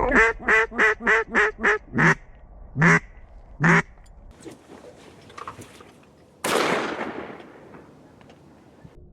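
Mallard quacking: a quick run of about seven quacks, then three slower ones, falling off after about four seconds. A sudden burst of hissing noise follows a couple of seconds later and dies away over a second or so.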